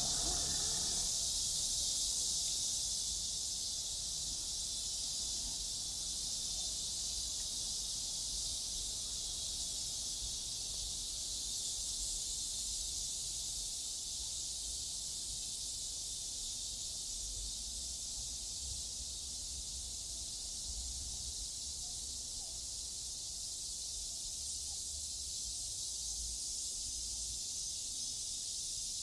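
Steady, high-pitched chorus of cicadas, easing slightly after the first few seconds, over a faint uneven low rumble.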